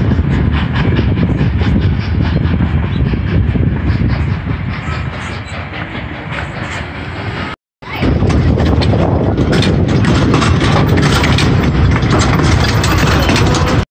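Steam-hauled passenger train cars rolling by, their steel wheels rumbling and clacking over the rail joints in a steady run of clicks. The sound drops out for a moment about halfway through, then comes back as the same louder rumble and clatter heard from aboard an open car of the moving train.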